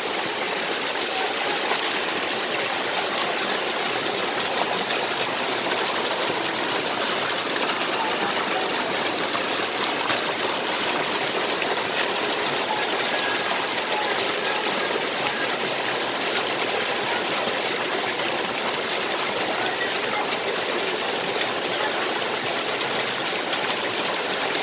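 Waterfall and stream water flowing, a steady, unchanging noise of falling and running water.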